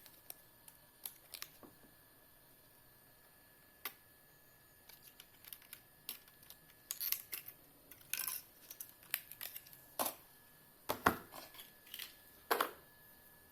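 Irregular clicks, taps and short scrapes of small hard parts being handled, sparse at first and busier in the second half, with the loudest knocks near the end.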